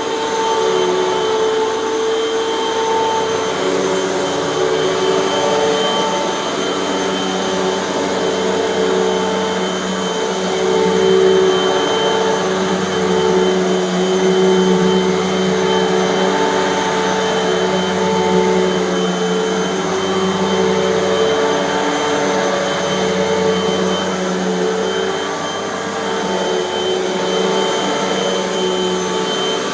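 Bagless Hoover upright vacuum cleaner running over carpet. Its motor gives a steady whine of several fixed notes over a rushing of air, and the loudness swells and dips a little as it is pushed back and forth.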